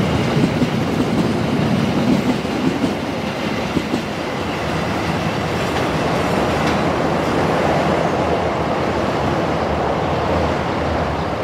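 Passenger train coaches rolling past on steel rails, wheels clacking over rail joints. There are sharp clacks in the first few seconds, then a steadier rumble.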